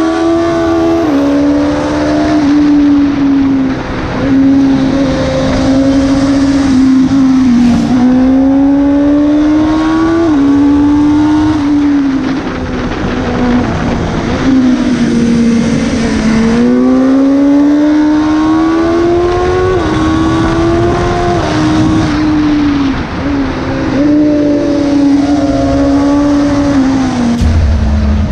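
Sportbike engine heard from on board at speed, its pitch climbing under throttle and dropping sharply again and again as the rider shifts and rolls off for corners, over rushing wind and road noise.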